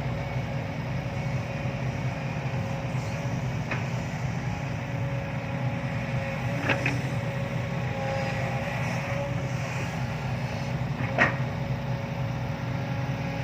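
Sumitomo SH130-5 excavator's diesel engine running steadily, with a steady whine on top. Three short sharp knocks come about 4, 7 and 11 seconds in.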